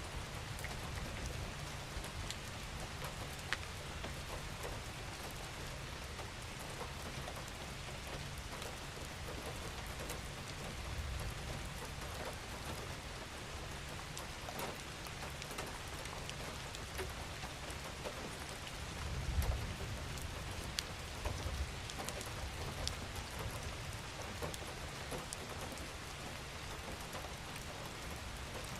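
Steady rain falling: an even hiss with many single drops ticking on a surface, over a low rumble that swells briefly about two-thirds of the way through.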